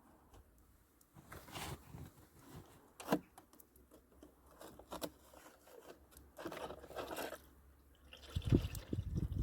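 Scrapes and knocks of hands and tools at an engine's oil drain plug, with one sharp knock about three seconds in. Near the end a louder, lower rushing starts, in keeping with the old engine oil beginning to pour out.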